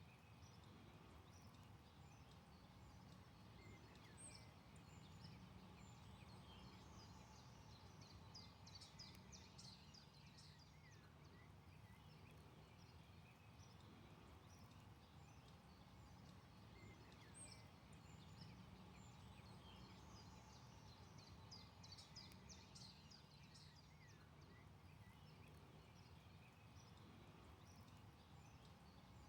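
Faint forest ambience with scattered songbird calls over a steady low rumble. Twice a rapid run of high chirps stands out, about a third of the way through and again about two thirds through.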